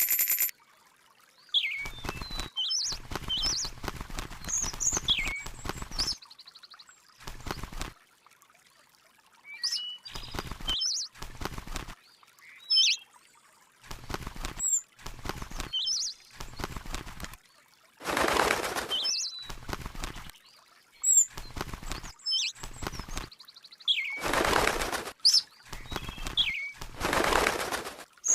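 A small bird chirping repeatedly in short calls that glide up and down in pitch. Between the calls come bursts of rushing noise, the loudest three in the second half.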